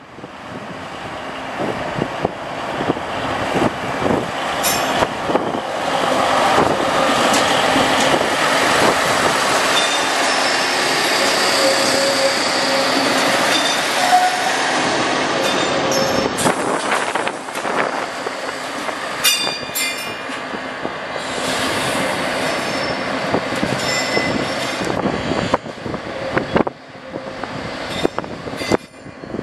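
Diesel double railcar rolling on the track, its wheels squealing in a steady metallic screech over clattering rail noise, with a run of sharp clicks about two-thirds of the way through.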